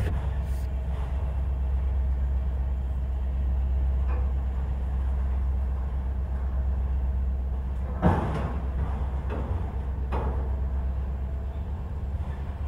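Autorack freight cars rolling past: a steady low rumble of wheels on rail, broken by several sharp clanks, the loudest about two-thirds of the way through and another about two seconds later.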